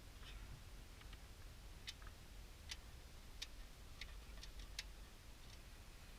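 Faint, sharp, irregular metallic clicks of hand tools as the transmission pan bolts are tightened, several coming close together about four seconds in.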